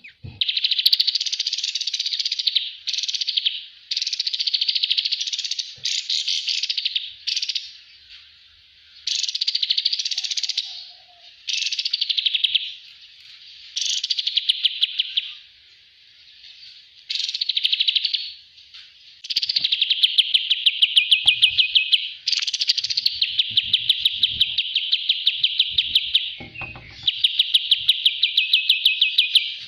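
Kapas tembak songbird singing loud, rapid trilled phrases of one to three seconds with short pauses between them, running into a longer unbroken trill in the last third.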